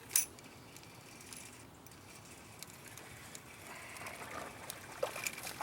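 Fishing reel being wound in, a light mechanical whir with scattered clicks and handling knocks, the whir growing from about three and a half seconds in.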